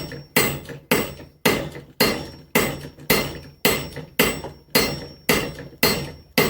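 Hand hammer striking hot steel on an anvil in a steady rhythm, about two blows a second, each ringing briefly: forge welding the folded mild-steel body of an axe at welding heat.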